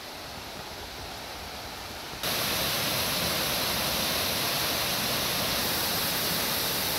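Waterfall water rushing, a steady noise that jumps louder about two seconds in and then holds steady.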